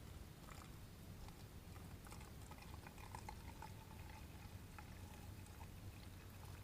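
Liquid being poured slowly from a container in a faint, thin trickle, with a thin ringing tone about two seconds in that fades out a couple of seconds later.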